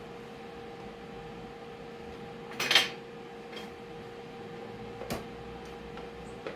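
Metal parts clanking: one loud clatter about two and a half seconds in, then a few lighter knocks, over a steady hum.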